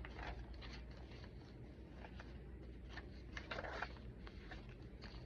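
Faint rustling and soft scraping of paper pages being handled and turned in a chunky handmade junk journal, the clearest rustle about three and a half seconds in.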